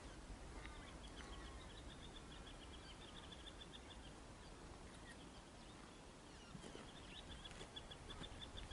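A bird calling in two runs of rapid, evenly spaced high chirps, faint, over a low steady rumble from distant diesel locomotives.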